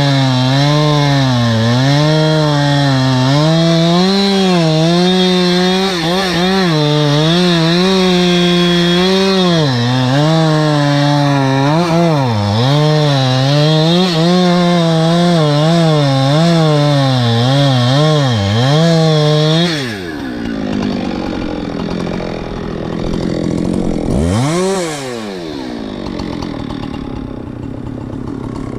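Two-stroke chainsaw at full throttle cutting wood, its pitch dipping and recovering over and over as the chain bogs under load. About twenty seconds in it drops to idle, revs once briefly, then idles.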